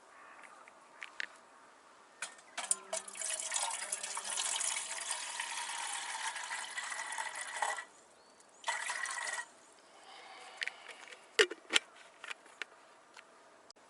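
Liquid pouring into a container for about five seconds, then a second short pour of under a second. A couple of sharp knocks follow near the end.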